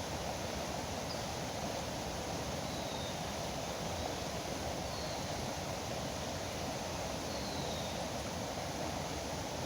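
Steady rush of flowing river water, with a few faint, short, high chirps from birds.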